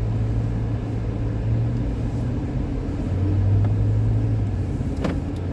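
Vehicle engine running with a steady low drone, getting slightly louder partway through, and a single short click about five seconds in.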